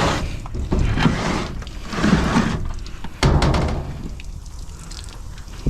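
Washing machine being shifted and rocked, with water still sloshing inside it: four noisy swells about a second apart with low knocks, quieter after about four seconds.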